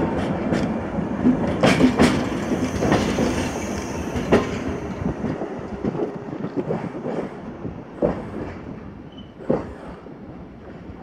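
The tail of a catenary works train rolling past, its wagons' wheels knocking over the rail joints, with the last vehicle being a PW-260.00 overhead-wire stringing car. The rumble fades away over the next few seconds as the train leaves, leaving a few faint knocks.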